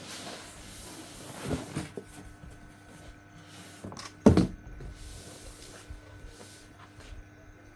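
Cardboard box and packaging being handled: scattered knocks and rubbing, with one loud thump about four seconds in.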